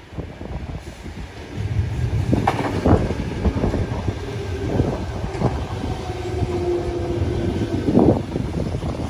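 Double-deck electric suburban train pulling in and running close past along the platform, its wheels rumbling with sharp clacks over the rail joints as it slows. A steady whine sounds through the second half.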